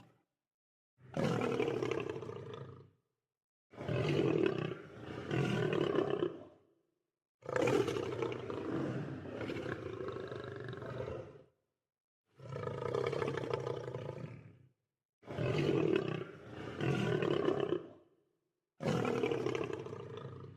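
Lion roars: about six separate roars, each two to four seconds long, some falling off at the end, cut apart by dead silence.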